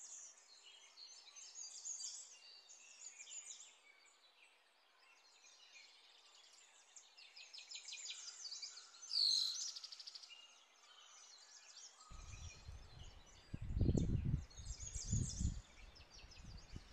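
Wild songbirds chirping and trilling, with one louder, higher falling call about nine seconds in. From about twelve seconds on, irregular low rumbles join in.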